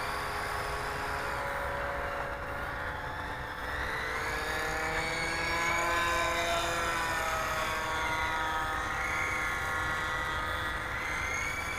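Blade 180EFL electric RC helicopter with counter-rotating rotors whining in flight. The pitch rises around the middle and wavers up and down as the throttle is worked. The helicopter is flying well out of trim.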